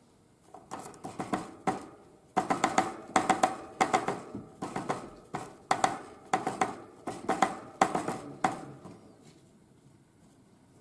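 A tit hammering at a sunflower seed with its beak: rapid, irregular woody taps, several a second, that stop near the end.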